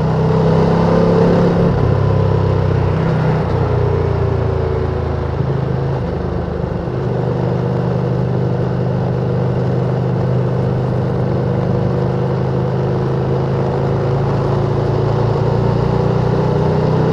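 Ducati Panigale V2's L-twin engine on its stock exhaust, running at a steady cruise under wind and road noise; the engine note eases off briefly about six seconds in, then holds steady again.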